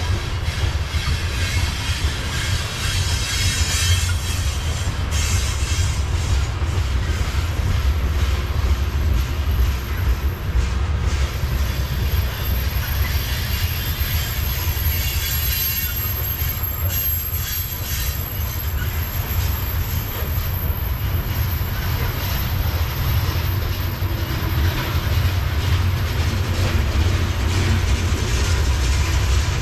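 Freight train of covered hopper cars rolling past: a steady low rumble of steel wheels on the rails. A thin, very high wheel squeal joins in about a third of the way through and fades out after the middle.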